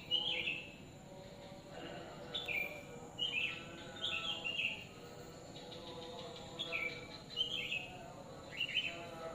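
Small birds chirping: short, high two-note chirps that step down in pitch, repeated about once a second, over faint background hum.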